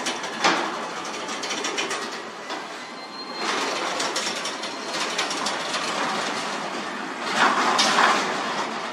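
Sectional garage door running along its metal tracks on newly replaced rollers: a steady rumble with many quick clicks, growing louder about seven seconds in.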